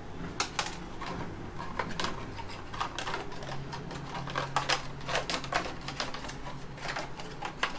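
Irregular sharp clicks and taps of plastic motorcycle fairing panels and fasteners being handled and pulled loose, with a steady low hum beneath.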